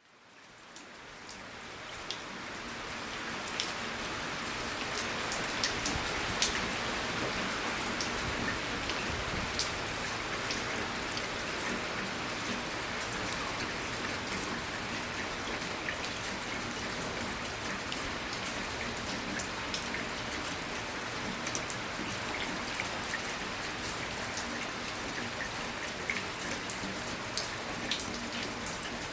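Steady rain falling, with single drops ticking sharply now and then over the hiss; it fades in over the first few seconds.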